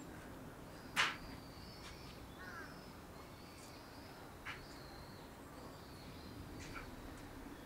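Birds calling: thin high chirps repeating throughout, with a few short sharp calls, the loudest about a second in, over a faint steady low hum.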